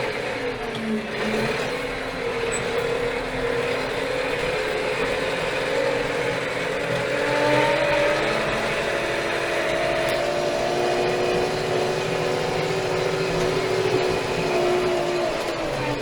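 Steyr 4075 Kompakt tractor's four-cylinder Fiat Powertrain diesel engine running, its pitch dropping about a second in, rising again around the middle and falling near the end as the revs change.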